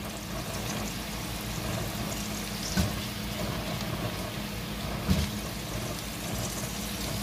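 Chopped onions frying in bubbling hot oil in a pot, with paneer cubes frying in a second pan, making a steady sizzle. Two brief knocks sound, about three seconds in and again about five seconds in.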